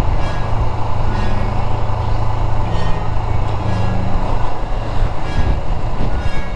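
Steady rumble of wind buffeting the camera's microphone while riding, with the Honda CBR400R motorcycle's parallel-twin engine running underneath.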